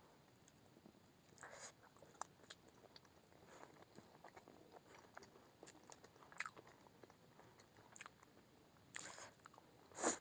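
A person eating momos: faint chewing and mouth sounds, with a couple of louder ones near the end.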